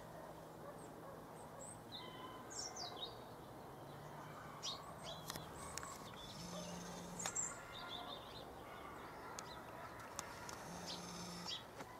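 Small birds chirping and calling with short chirps and trills, scattered through, over a steady outdoor hiss. A faint low hum comes and goes underneath.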